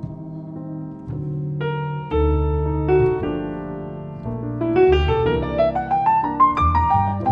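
Acoustic piano and double bass playing a slow piece, with deep low notes sounding every few seconds. From about halfway, the piano plays a run of notes climbing steadily in pitch.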